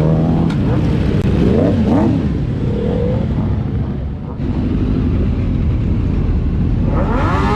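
Motorcycle engines revving and passing over a steady low engine rumble, their pitch rising and falling; the loudest rev swells near the end.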